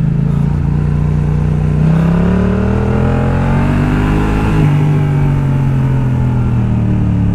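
2019 Yamaha MT-07's parallel-twin engine running through a full Akrapovič exhaust with its baffle fitted. The revs hold, climb for a couple of seconds, drop sharply about four and a half seconds in at a gear change, then settle steady.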